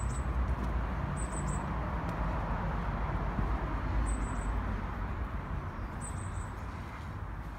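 A steady low rumble of wind on the microphone. A small bird repeats short, high chirps of two or three quick notes every two seconds or so.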